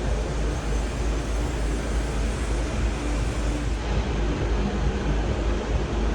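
Steady ambient noise with a deep, fluctuating low rumble underneath and no distinct events.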